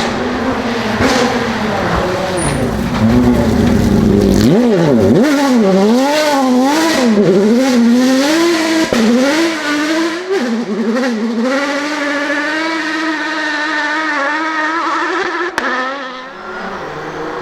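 Rally car engine worked hard, its pitch swinging rapidly up and down as the driver lifts and comes back on the throttle through a sequence of corners, then settling into a long, steady climb under acceleration. A single sharp crack comes near the end.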